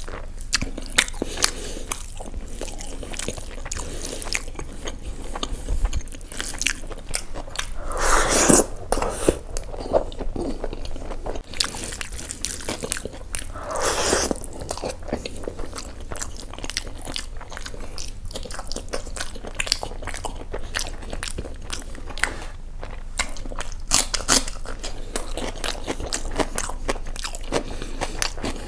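Close-miked eating: a man chewing handfuls of spiced basmati rice with mutton keema kaleji, with many small wet clicks and smacks from his mouth. Two louder, longer mouthful sounds come about 8 and 14 seconds in.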